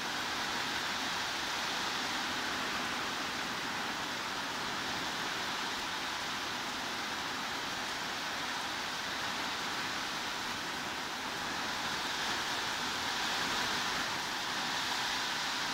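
Heavy rain falling as a steady, even hiss, with no separate drops or thunder standing out. It swells slightly about two-thirds of the way through.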